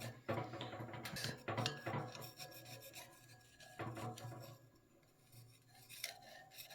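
Faint, irregular scraping and rubbing with a few sharp clicks: the metal burner parts of a natural gas convector heater being handled and scraped.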